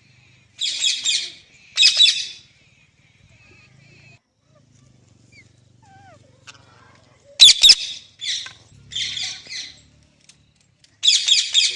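Pet parrot squawking in short, harsh, high-pitched calls: two near the start, a quick cluster of three partway through, and one more near the end.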